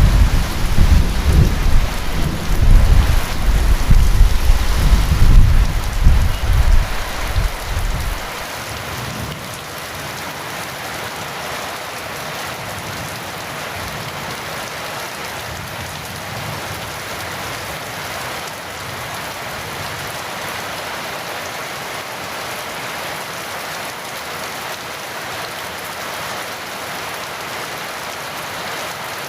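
Heavy rain falling steadily, with a long low rumble of thunder that rolls on for the first eight seconds or so and then dies away, leaving only the hiss of the rain.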